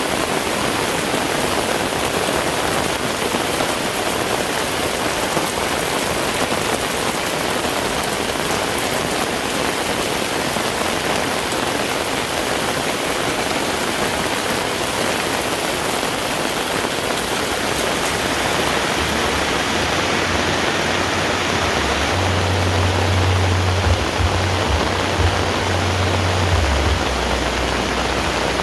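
Heavy rain falling steadily, a dense even hiss. About two-thirds of the way through, a low rumble joins in and comes and goes under the rain.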